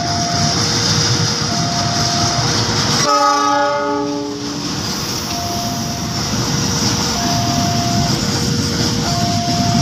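Diesel locomotive of an Indonesian (KAI) train passing at speed, followed by a string of flat wagons rumbling and clattering over the rails. About three seconds in, the locomotive sounds its horn in a single blast of about a second and a half. An alternating two-note tone repeats behind the train noise.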